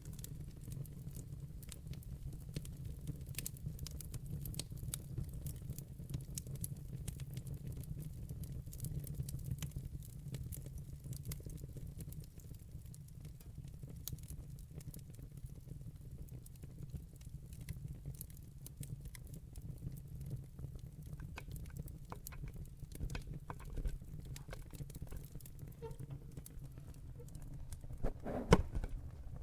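Wood fire burning in a fireplace: a steady low rumble of flame under many small crackles and pops. A louder cluster of pops comes near the end.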